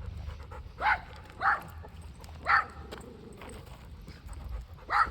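A dog giving four short, high whines, each rising in pitch, the first three about half a second to a second apart and the last a few seconds later.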